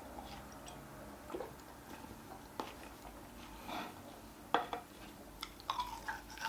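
A person eating salt-grilled pork back ribs: quiet chewing broken by a handful of sharp clicks of tableware, the loudest about four and a half seconds in, with a few more near the end.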